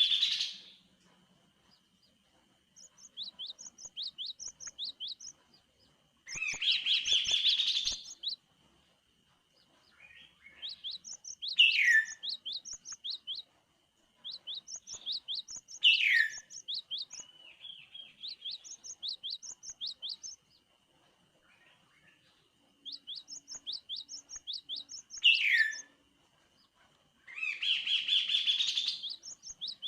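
Kaso-kaso (chestnut-capped babbler) singing in bouts of a few seconds: runs of quick, high chipping notes, a few louder dense bursts and several sharply downward-slurred notes, with short pauses between bouts. A thin steady high tone runs underneath.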